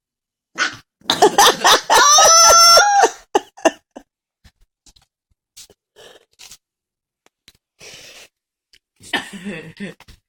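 A person's loud vocal outburst: a few rough, cough-like bursts, then a held high-pitched squeal about two seconds in, followed by scattered faint knocks and a shorter vocal burst near the end.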